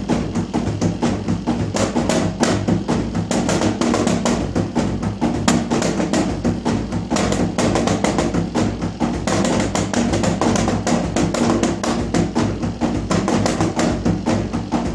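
Fast, steady rhythmic drumming: sharp knocking strokes, several a second, over a steady low hum.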